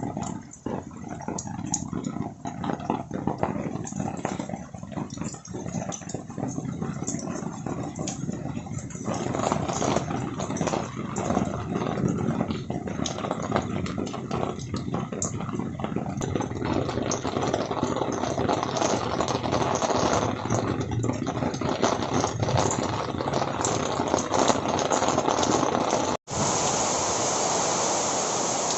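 Rain falling, with many separate drop hits over a steady wash; it grows heavier and denser about a third of the way in. Near the end it breaks off for an instant and comes back as a smoother, even rush of rain.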